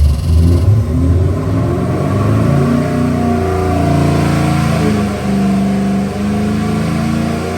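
446 cubic inch 351 Windsor-based small-block Ford stroker V8 with multi-port EFI, running hard on an engine dyno. Its pitch steps up and down, with two brief dips about five and six seconds in.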